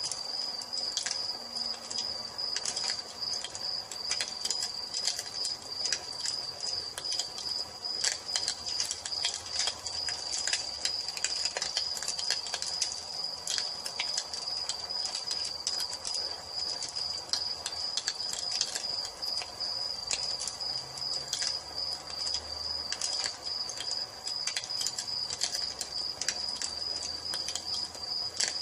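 Crickets chirping in a steady high trill over a crackling wood fire, with frequent sharp pops and snaps throughout.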